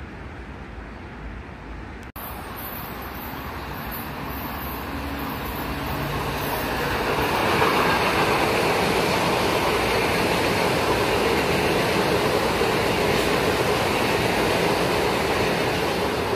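Metro-North commuter train passing close on the nearby track. After a brief quieter stretch, the running noise of wheels on rails builds from a few seconds in to a loud, steady noise that carries on as the cars go by.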